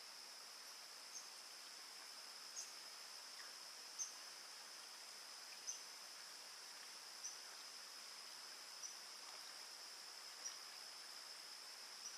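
Faint, steady high-pitched insect chorus of crickets, with a short high chirp repeating about every one and a half seconds.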